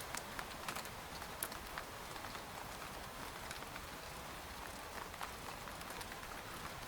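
Rain falling on a tent: a steady soft hiss with scattered sharper ticks of single drops hitting the fabric.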